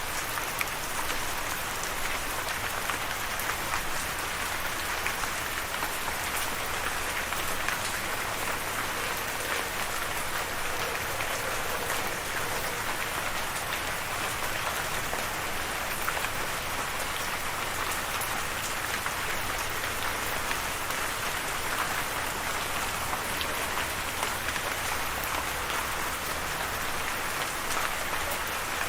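Steady rain falling, an even hiss scattered with many small ticks of individual drops.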